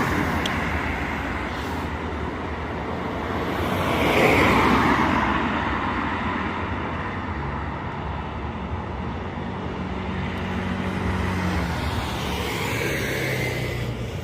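Road traffic passing, with one vehicle going by louder about four seconds in, and a double-decker bus's engine running.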